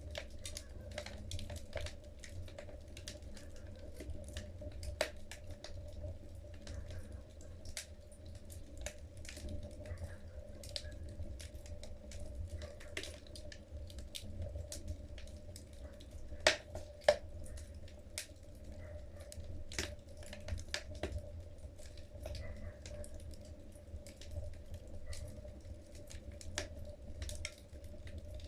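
Wood fire burning in a fireplace, logs crackling with irregular sharp pops over a low rumble of the flames; two louder pops come in quick succession a little past the middle.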